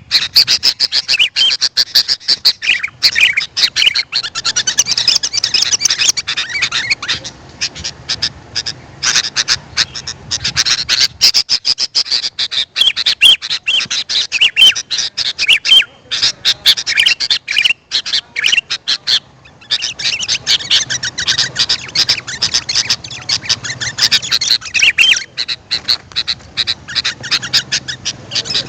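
Sooty-headed bulbul (kutilang) calling: rapid, dense chirps and short whistled notes, repeated over and over with a brief thinner stretch about two-thirds of the way through.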